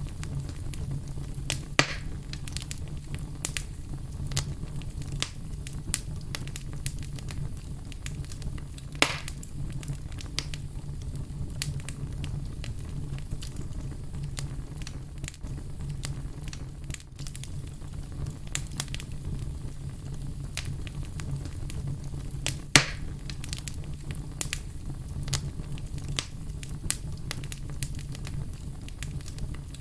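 Wood fire burning with a steady low rumble and frequent sharp crackles, with a few louder pops now and then, the loudest about two-thirds of the way through.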